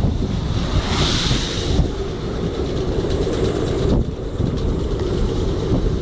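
Storm-force jugo wind buffeting the microphone in a continuous heavy low rumble, with a brighter hissing gust about a second in.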